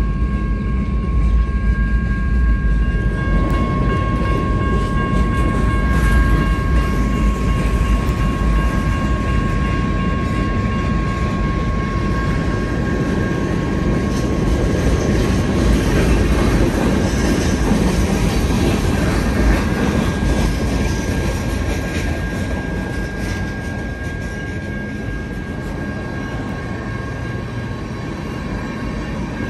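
Freight train rolling through a railroad crossing: a steady low rumble of wheels on rail, with high-pitched tones held above it. It eases slightly over the last several seconds.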